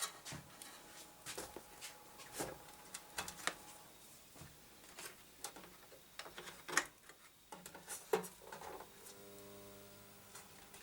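Scattered light clicks and taps from handling computer hardware. About nine seconds in, a steady low electrical buzz starts as the faulty IBM motherboard is powered up again.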